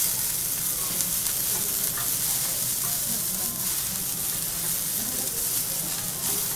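A scallop and a white fish fillet sizzling in hot oil on a teppanyaki griddle, a steady frying hiss.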